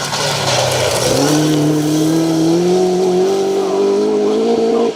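Ford Escort Mk2 rally car engine pulling hard: the pitch dips briefly about a second in, then climbs steadily for about four seconds as the car accelerates, and cuts off suddenly near the end.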